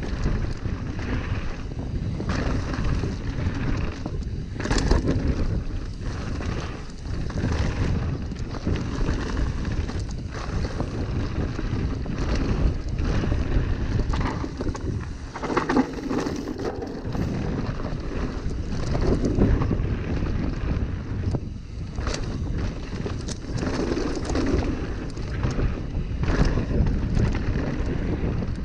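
Mountain bike ridden along a dirt trail: steady wind buffeting on the helmet or bike camera's microphone over rumbling tyre noise, with frequent knocks and rattles from the bike over roots and bumps.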